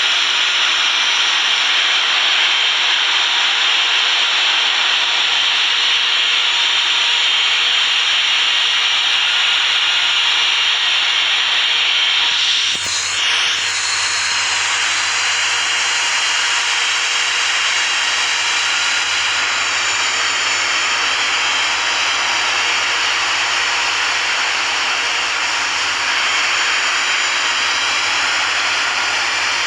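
Jet turbine running steadily at an airport: a loud, even rushing hiss, with a brief dip about thirteen seconds in.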